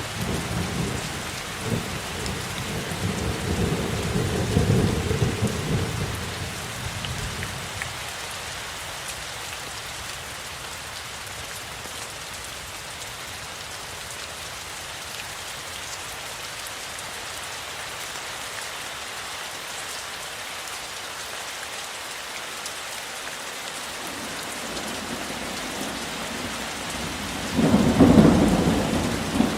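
Steady rain falling, with thunder rumbling through the first few seconds, fading out, and a louder rumble of thunder breaking in near the end.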